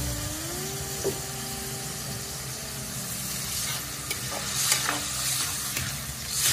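Garlic and onions sizzling in soy sauce in a metal wok, stirred with a metal ladle scraping the pan. About four seconds in, water is poured into the hot wok and the sizzling flares up briefly, then flares once more near the end.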